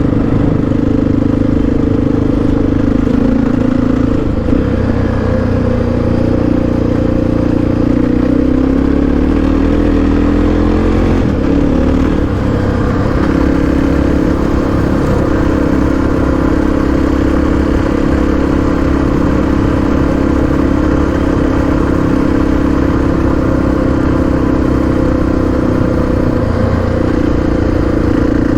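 Honda XR650R's single-cylinder four-stroke engine running under way. Its pitch shifts several times through the first dozen seconds, rising and dropping back, then holds steady.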